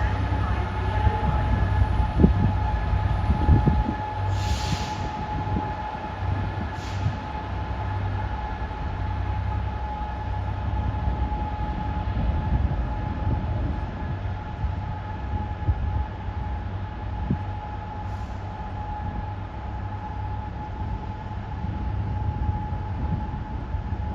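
A train running, with a steady low rumble and a steady whine over it.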